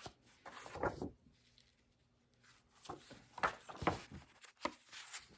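Plastic packaging crinkling and rustling as items are handled, in several short separate crinkles.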